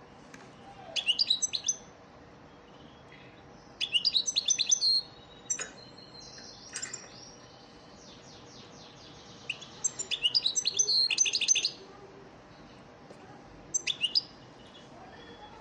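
European goldfinch singing: four twittering bursts of song with pauses between, the longest about ten seconds in, played as a song-lesson recording for teaching caged goldfinches to sing.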